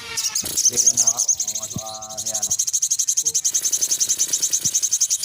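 Spiderhunter (sogok ontong) song: a fast, even trill of high, insect-like notes that runs on steadily after about a second and a half, with a lower, rising call about two seconds in.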